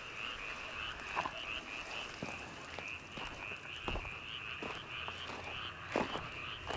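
A chorus of frogs calling at night, a steady high trill that pulses about five times a second, with a few soft knocks scattered through it.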